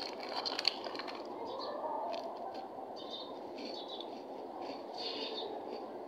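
Faint bird chirps, short and high, every second or so, over a steady background hiss of room noise.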